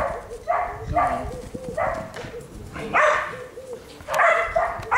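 A dog barking over and over, about six short barks with gaps of half a second to a second, the last ones the loudest.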